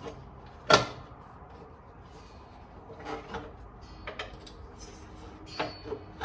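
Knocks and clunks of a valve cover being worked off a Mercedes M100 V8. One sharp, loud knock about a second in, then scattered lighter knocks, some with a short metallic ring.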